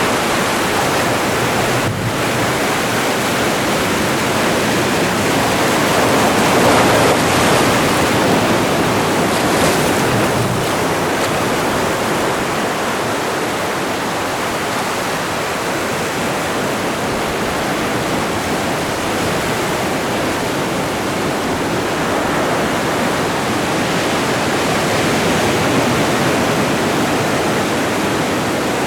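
Atlantic Ocean surf washing onto the shore: a steady rush of breaking waves that swells a little louder about a quarter of the way in and again near the end.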